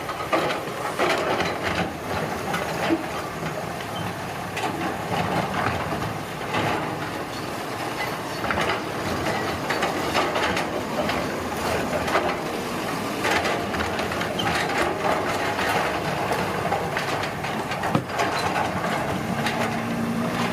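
Road construction machinery at work: a steady mechanical din with frequent irregular clatters and knocks. Near the end a low engine hum sets in.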